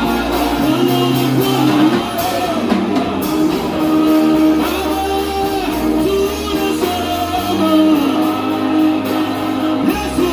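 Live church worship music: a band with guitar and bass playing under held sung notes.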